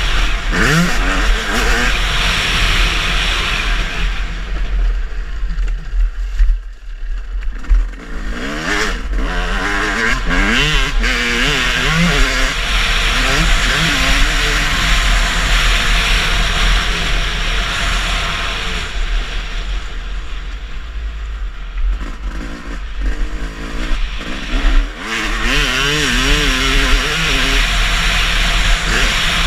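Motocross bike engines revving up and down, the pitch rising and falling with throttle and gear changes, over a steady rush of noise. The engine note drops out briefly twice.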